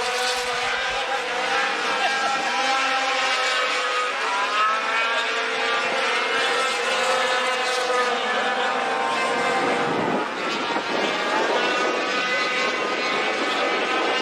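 A field of sport-truck racing engines running at speed around the track, several engines overlapping, their pitch gently rising and falling as the trucks go through the turns and down the straights.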